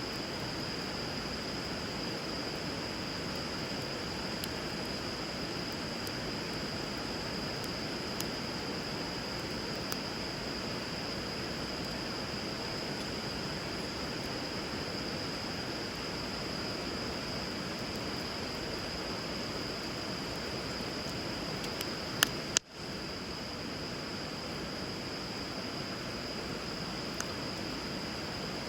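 Wood fire crackling with scattered sharp pops, two louder ones close together about three quarters of the way through, over the steady rush of flowing river water.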